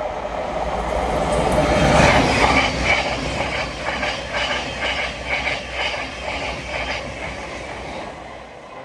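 Thameslink Class 700 electric multiple unit passing through at speed: the rail noise swells to a peak about two seconds in, then a regular run of wheel clicks over the rail joints, dying away near the end.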